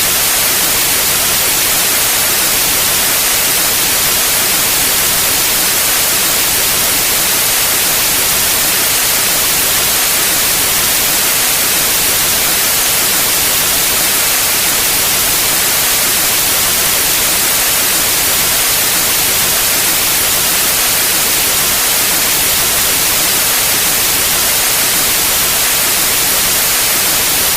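Pure white noise: a steady, even hiss, strongest in the high frequencies, with no change throughout.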